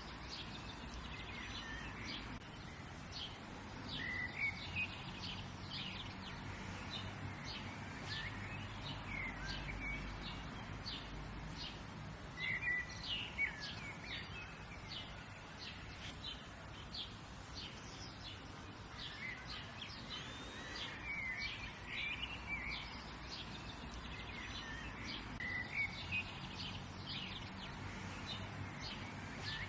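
Several birds chirping and calling, many short quick notes overlapping, over a steady low background rumble.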